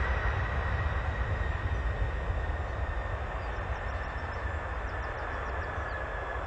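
Boeing 747-200 jet engines running: a steady low rumble with a high whine that sinks slightly in pitch as the sound slowly fades.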